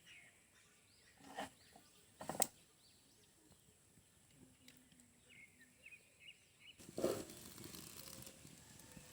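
Faint bird chirps in the background, with a few sharp knocks in the first couple of seconds and a louder knock about seven seconds in, followed by a steady hiss.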